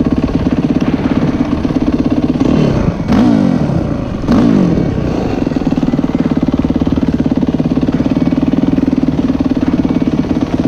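Yamaha YZ450F motocross bike's single-cylinder four-stroke engine running steadily under the rider. The revs swing twice, briefly, a few seconds in.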